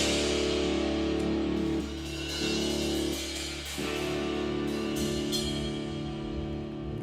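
Live rock band's closing chord ringing out: held electric guitar and bass notes sustaining over a fading cymbal wash, slowly dying away, with the held notes shifting a couple of times.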